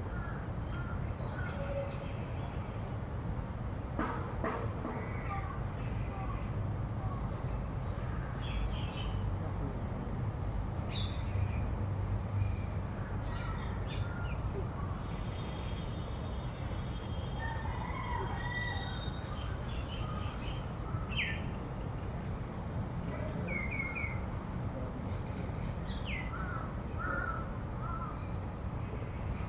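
Outdoor birds calling in short scattered calls, among them crows cawing, over a steady high-pitched background drone.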